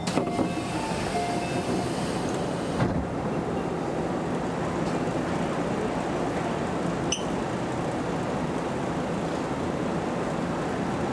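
Keio Inokashira Line express train running on the rails: steady wheel-on-rail and running noise, with a faint whine in the first few seconds and a couple of sharp clicks.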